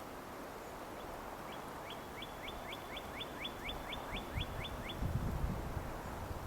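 A small songbird singing a rapid series of about fourteen clear, down-slurred whistles, about four a second. Low thuds, like footsteps in snow, come near the end.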